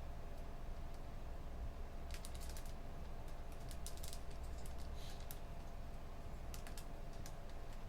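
Computer keyboard typing in short scattered runs of key clicks, over a steady low room hum.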